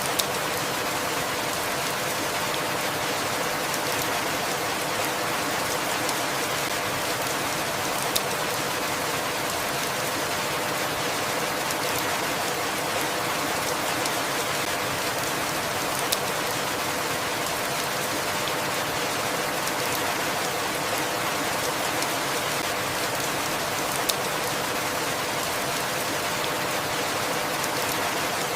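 Steady rain falling, an even hiss, with a single sharper drop tick about every eight seconds.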